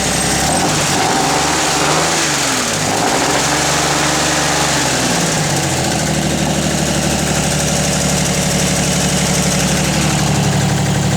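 1966 Chevrolet Corvair Corsa's 140-hp air-cooled flat-six running through a Clarks Ultimate Exhaust with the baffles out. It is revved up and back down twice, then settles to a steady idle about halfway through.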